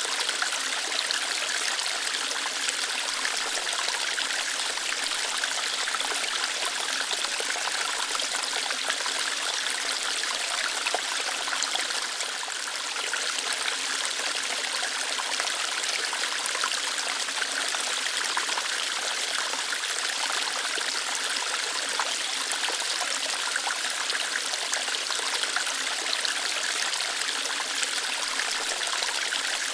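Water flowing lightly over rocks in a small waterfall, a steady, even splashing hiss.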